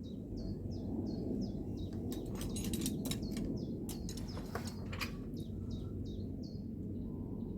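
A bird calling a repeated series of short, falling chirps, about three a second. From about two seconds in, a few seconds of sharp clicks and knocks of hand tools on metal, over steady low background noise.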